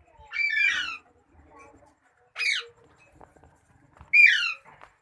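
Parrot squawking: three loud, harsh calls, each sliding downward in pitch, about two seconds apart.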